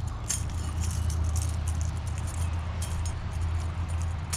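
Light metallic clinking and jangling of a fishing lure's hooks and hardware, irregular small clicks, as a landed bass is unhooked by hand. A steady low hum runs underneath.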